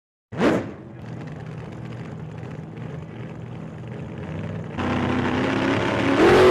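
A car engine running. It gives a short, sharp rev about half a second in, then runs steadily, gets louder about five seconds in, and rises in pitch near the end.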